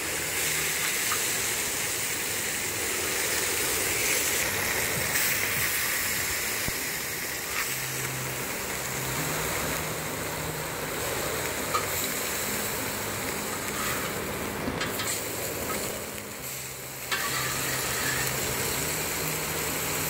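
Wahoo fillets and onions sizzling steadily on a hot gas-fired steel cooking disc, with a few light clicks and scrapes of a metal spatula as pieces are lifted off.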